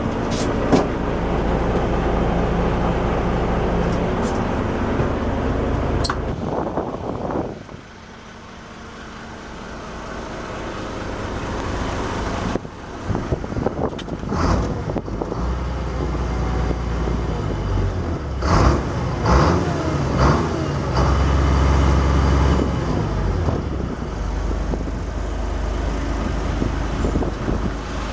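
Boat engine running steadily with a deep rumble, fading briefly about a quarter of the way in and building back up, with scattered knocks and clatter on top.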